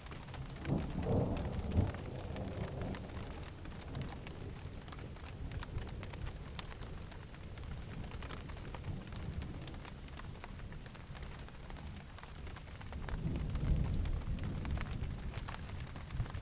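Steady rain pattering, with scattered individual drops, and low thunder rumbling twice: once about a second in and again near the end.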